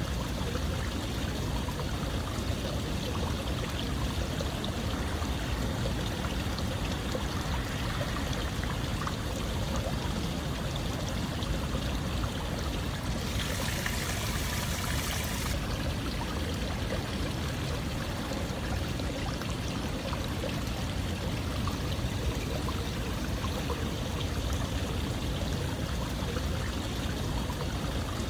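Steady running water, a continuous even rush like a flowing stream. About halfway through, a brighter hiss rises over it for roughly two seconds, then drops away.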